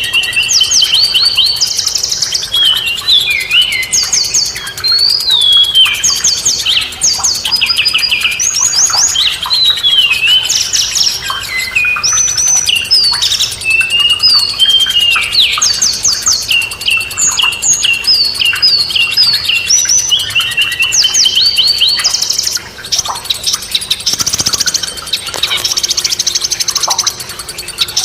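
A songbird singing a rapid, varied song of chirps, whistled notes and trills, with constant quick jumps and glides in pitch. About 24 seconds in there is a brief rush of noise, and a faint low hum follows.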